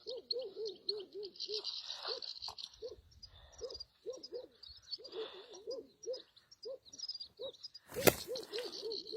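Birdsong: high, continuous twittering typical of European goldfinches, over runs of low, rounded notes repeated about four times a second. A single sharp crack comes about eight seconds in.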